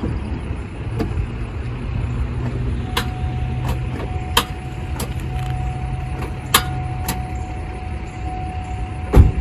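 A 2009 Chevrolet Avalanche clicking instead of cranking when the key is turned: about seven sharp, irregular clicks, with a steady tone sounding alongside. It is the familiar click-click-click of a failed starter, but here the fault lies elsewhere. A loud thump near the end.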